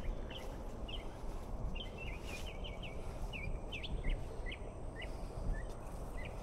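Small birds chirping: many short, high calls scattered throughout, over a steady low outdoor background noise.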